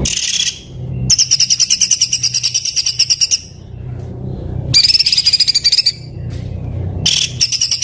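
Songbird singing rough, very rapid trills, a 'tembakan kasar' song of harsh repeated notes at about ten a second. It sings in phrases of one to two seconds with brief pauses between them.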